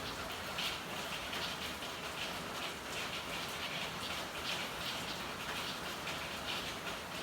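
Steady rain falling, with dense patter of drops striking hard surfaces.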